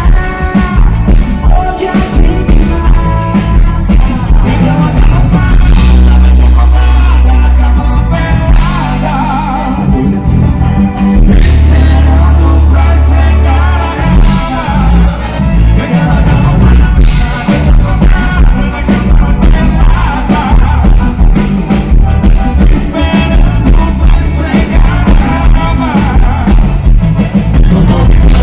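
Band playing loud amplified music with singing, a steady drum beat and heavy bass.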